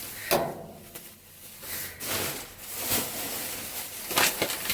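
Rummaging through trash in a dumpster: a sharp knock, then several bouts of rustling and scraping as items are shifted and handled.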